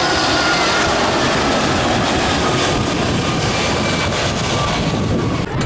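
Jet airliner's engines passing low overhead on landing approach: a loud, steady rush with a faint whine on top. It stops suddenly near the end.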